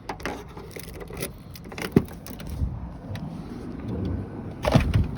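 Scattered clicks and knocks of handling around a pickup truck's cab with keys, with a louder thump about two seconds in and another near the end.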